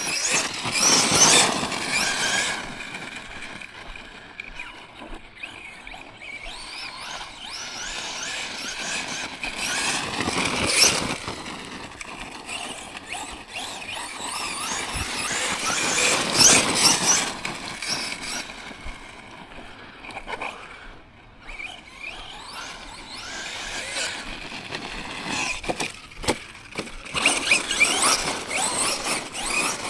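Tekno MT410 2.0 1/10-scale electric monster truck's motor and drivetrain whining under throttle, swelling and falling away in four bursts as the truck accelerates.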